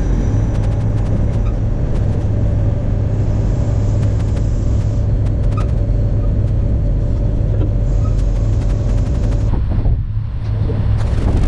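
Straight-piped ISX Cummins diesel of a Peterbilt 379 tow truck running steadily with a loud, deep, even note; the sound briefly drops off about ten seconds in.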